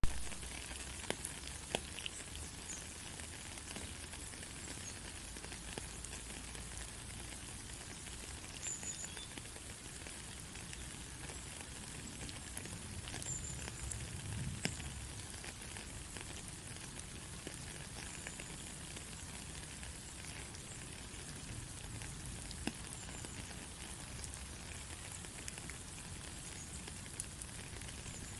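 Steady rain falling, an even hiss with scattered faint drop ticks. A sharp click right at the start follows a brief dropout.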